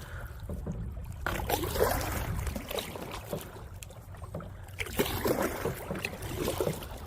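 Water splashing and sloshing around a kayak running a shallow downhill stretch of river, in two spells of a couple of seconds each over a steady low rumble.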